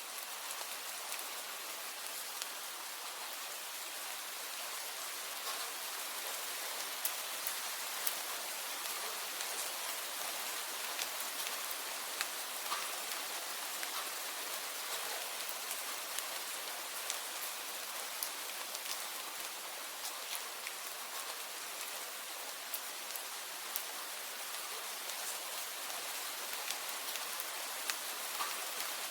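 Steady rain, an even hiss with sharp drop impacts ticking here and there.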